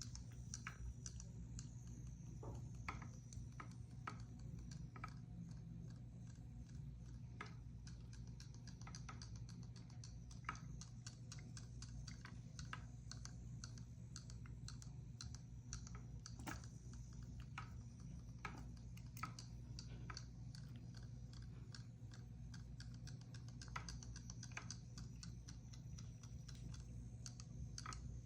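Light, irregular clicks and taps of kittens playing with a toy fish, over a steady low hum.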